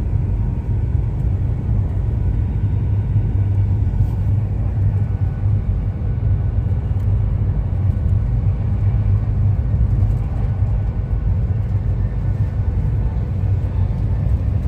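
Class 390 Pendolino electric train running at over 100 mph, heard from inside the passenger coach as a steady low rumble with a faint, even hum above it.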